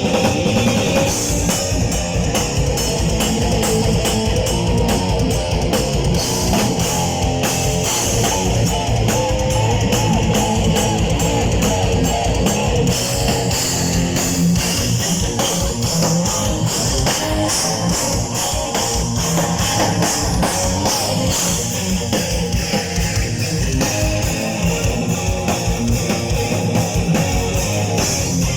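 Heavy metal band playing live: guitars over a steady drum kit, an instrumental passage with no singing.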